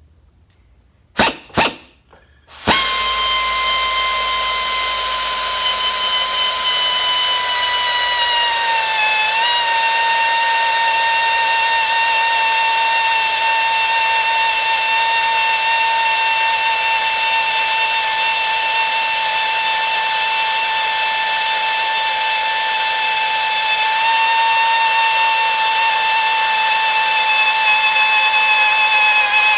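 Snap-on variable-speed drill blipped twice, then run steadily, drilling out a broken chainsaw bar stud with a high whine. The pitch sags briefly about nine seconds in as the bit bites.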